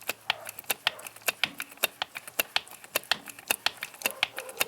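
Two-stage 5-ton hydraulic bottle jack being hand-pumped on test after a seal replacement, its pump mechanism giving a fast, even run of sharp metallic clicks, about five a second, as the second ram extends.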